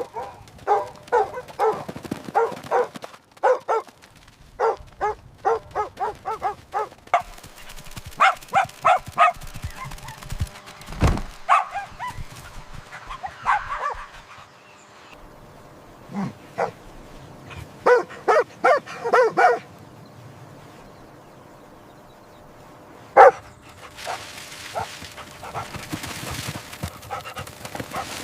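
Puppies yipping and barking in quick runs of short, high calls, with pauses in between, as they play. There is a dull thump about eleven seconds in and a rustling hiss near the end.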